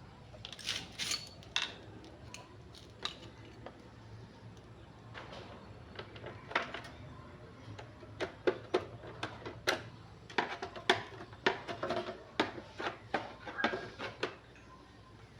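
Irregular clicks and taps of small hard objects being handled, scattered at first and coming thick and fast in the second half.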